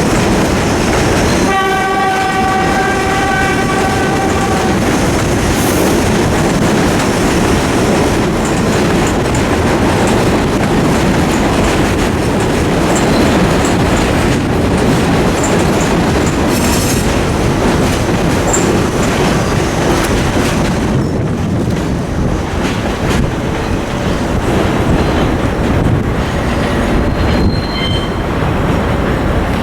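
Vintage New York City subway train, cars built 1948–1964, running on the rails with steady wheel clatter. A chorded horn sounds for about three seconds, starting about a second and a half in, and faint wheel squeal comes near the end.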